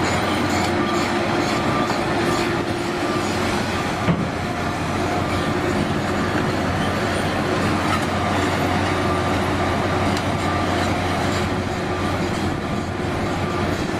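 Liebherr hydraulic excavator working, its diesel engine and machinery running with a steady heavy rumble, and a single knock about four seconds in.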